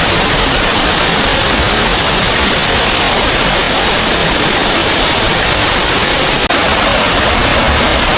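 Small waterfall's water rushing in a steady, loud hiss, with a very brief break about six and a half seconds in.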